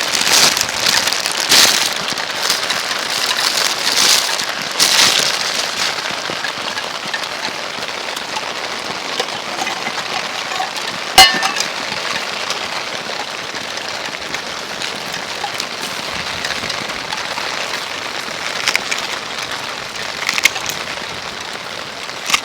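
Rain falling, a steady patter of drops hitting surfaces, heaviest in the first few seconds and then easing to a steady level. About eleven seconds in comes a single sharp, ringing clink.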